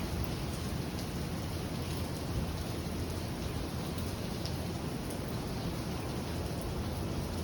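Steady rain falling: an even hiss with a strong low rumble underneath and a few faint drop ticks.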